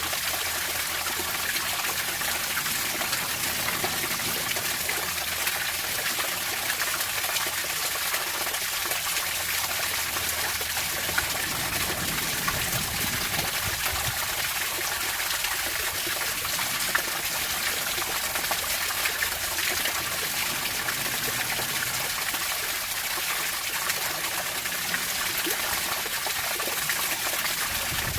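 Water flowing and trickling steadily, an even splashing hiss with no rise and fall.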